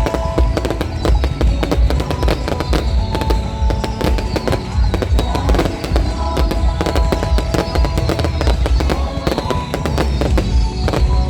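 Fireworks display: a dense, continuous run of bangs and crackling, with heavy booming underneath.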